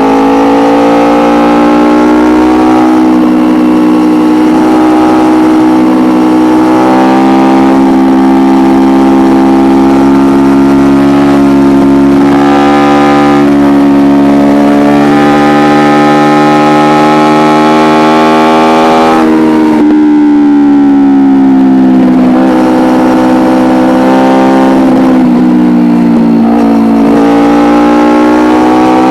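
Kawasaki Ninja 250R's parallel-twin engine through an Akrapovic exhaust, running under way at fairly steady revs. About two-thirds of the way through the pitch drops sharply and then climbs again, and it dips once more near the end.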